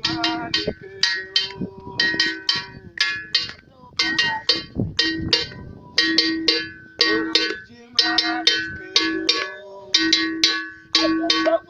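A metal bell or gong struck over and over in a quick, steady rhythm, each stroke ringing briefly.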